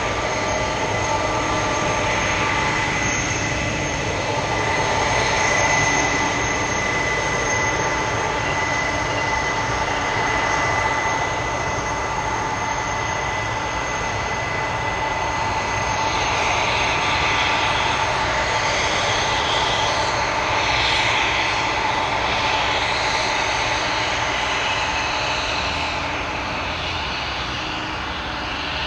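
Jet engines of a Boeing 747-400F freighter running at taxi power: a steady whine over a constant rush. The pitched tones fade about halfway through, leaving a rougher rush.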